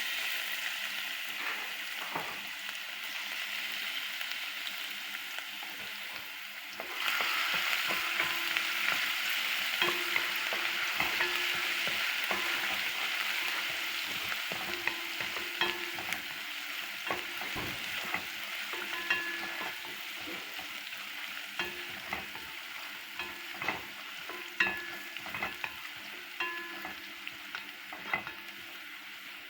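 Food sizzling as it fries in a pan, stirred with a utensil that scrapes and knocks against the pan. The sizzle grows louder about seven seconds in.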